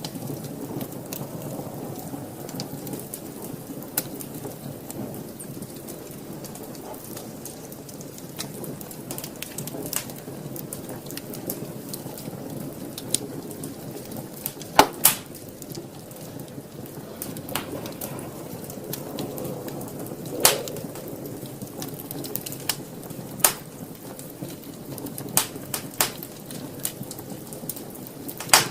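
Wood fire burning in a fireplace: a steady low rush of flames with sharp crackles and pops every few seconds. The loudest are a double pop about halfway through and another a few seconds later.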